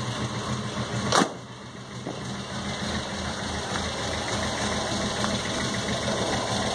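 1978 Chevrolet Chevette's four-cylinder engine idling steadily. One sharp knock sounds about a second in.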